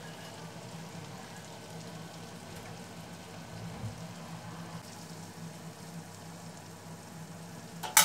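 Chopped onion and garlic frying in hot oil in a stainless steel pan, a steady sizzle. A single sharp knock just before the end.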